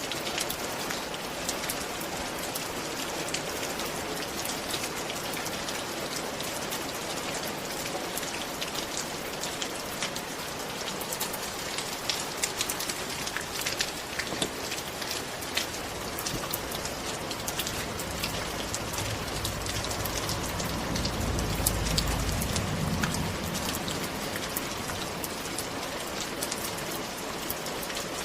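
Steady rain with many individual drops pattering on a surface. In the second half a low rumble swells and fades over a few seconds.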